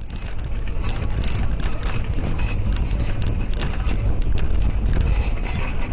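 Steady low rumble of a moving vehicle with wind noise on the microphone.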